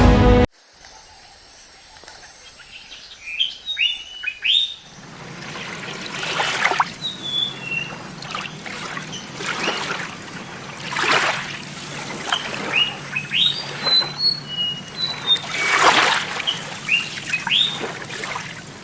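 Wild birds chirping in short, quick calls over an outdoor background of running water, with swells of rushing or splashing water every few seconds.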